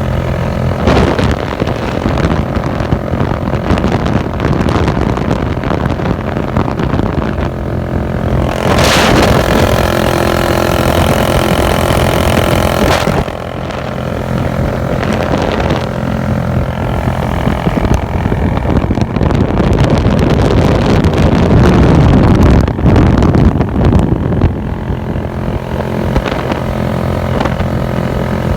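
Modified Bajaj Boxer motorcycle's single-cylinder four-stroke engine running under way through an aftermarket exhaust, the engine note rising and falling with the throttle. About nine seconds in, a loud hissing rush lasts roughly four seconds.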